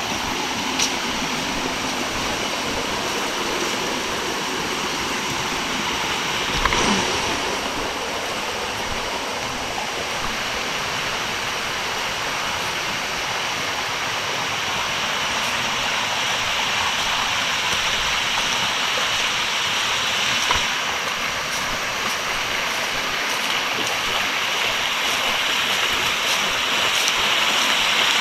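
Rushing river water, a steady hiss that grows gradually louder towards the end, with a single brief thump about seven seconds in.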